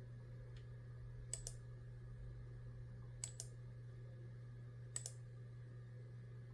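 Three keystrokes on a computer keyboard, about two seconds apart, each a quick pair of clicks as the key goes down and comes back up, over a steady low hum.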